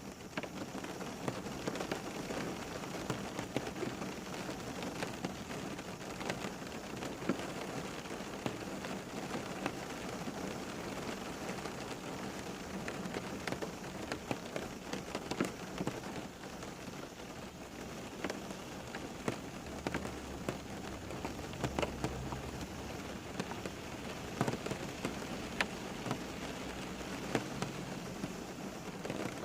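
Steady rain falling on a surface, a continuous hiss with many distinct drops pattering throughout, and a brief low rumble about two-thirds of the way in.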